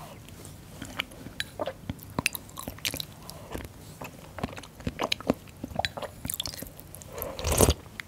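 Close-miked chewing of fermented skate (hongeo) with boiled pork and aged kimchi: a run of small wet crunches and clicks, with one louder, longer crunch near the end.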